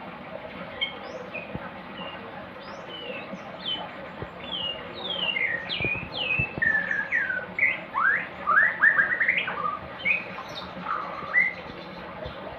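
Songbird singing: a string of short whistled chirps and sweeping notes, sparse at first, then louder and quicker from about five seconds in, with a fast run of rising notes near the middle.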